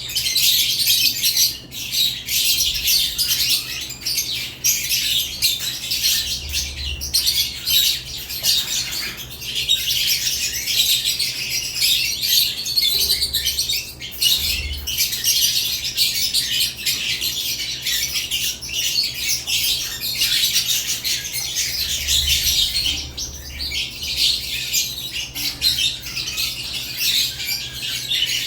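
Several caged lovebirds chirping and squawking without pause: a dense, shrill chatter of many short high calls.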